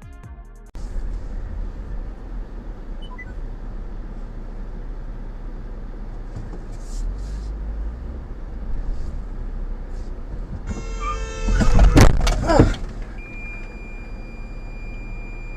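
Car on the road with a steady low rumble. About eleven seconds in comes a collision: a squeal and several loud crunching impacts over roughly two seconds. A steady high electronic tone then sounds until the end.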